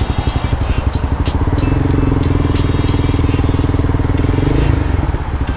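A 300cc motorcycle engine running under the rider with a fast pulsing exhaust note; it gets louder about two seconds in as the bike pulls harder, then eases off near the end.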